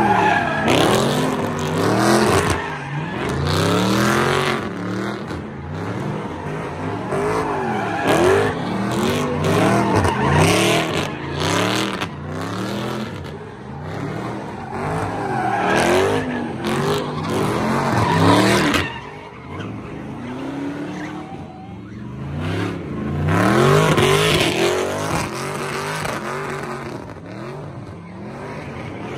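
V8 muscle car revving hard up and down over and over while spinning donuts. Its tires screech and hiss as they spin on the pavement, with the loudest surges coming in waves several seconds apart.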